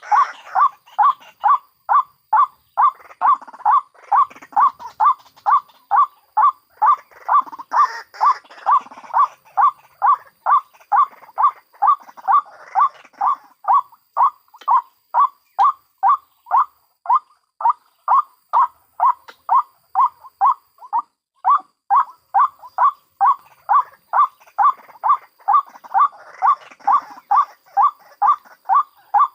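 White-breasted waterhen calling: a steady run of loud, even notes at about two a second, with fainter cackling calls behind them. Played as a lure call to draw waterhens in.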